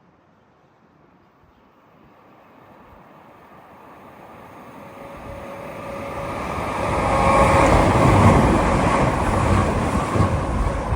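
A train approaching, its noise building steadily for several seconds, then passing close by with a loud rumble and rail noise in the second half.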